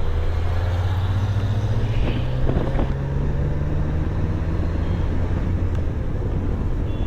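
A motor vehicle's engine running steadily while on the move: a continuous low hum with road noise.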